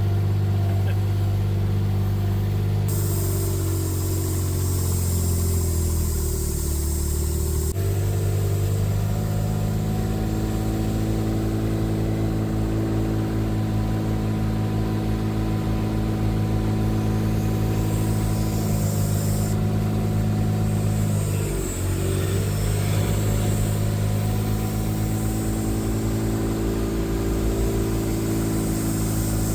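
An engine running steadily, its pitch shifting about eight seconds in and dipping briefly near twenty-two seconds before settling again.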